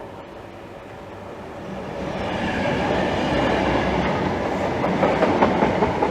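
Greater Anglia's Class 90-powered intercity set of Mark 3 coaches passing through the station at speed, growing louder as it comes up over the first couple of seconds. Its wheels clack rhythmically over rail joints in the last second or so.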